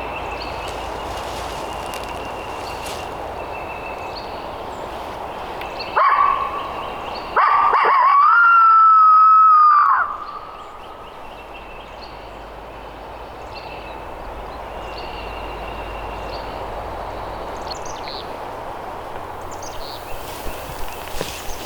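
Coyote howler locator call blown close by: a short yip about six seconds in, then a long howl that rises slightly and holds for about two and a half seconds before cutting off. It is a call used to make a gobbler shock-gobble, and no gobble answers. Dawn birdsong goes on underneath.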